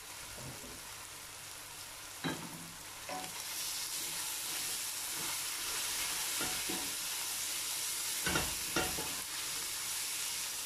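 Onions, tomatoes and freshly added grated garlic sizzling in oil in a stainless steel pot while a wooden spoon stirs them. The sizzle grows louder about three seconds in, and a few knocks of the spoon against the pot come through, two close together near the end.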